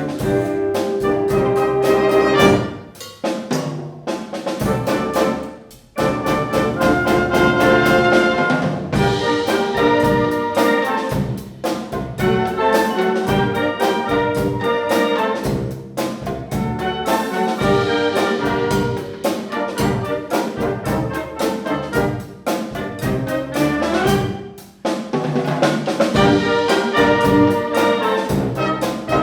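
Concert wind band playing: brass chords led by trumpets and trombones over percussion, with short breaks between phrases.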